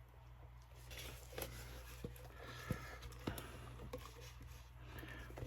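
Faint scattered clicks and taps of resin bottles and a plastic measuring cup being handled while two-part epoxy is measured out, over a low steady hum.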